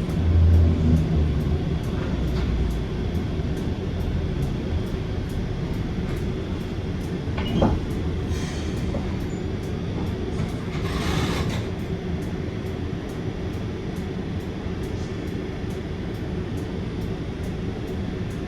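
Heritage tram running along its track, with a steady rumble and hum. A brief squeal comes about seven and a half seconds in, and a short hiss around eleven seconds in.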